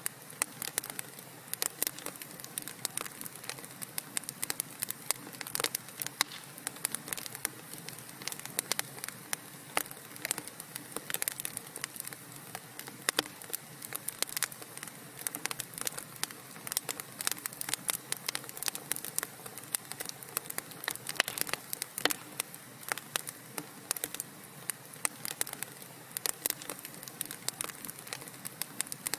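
Wood fire crackling in a fireplace: a constant soft hiss with dense, irregular sharp pops and snaps.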